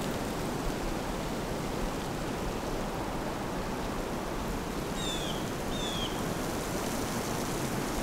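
Steady rushing noise with a low rumble throughout; about five and six seconds in, a small bird gives two short, high, falling chirps.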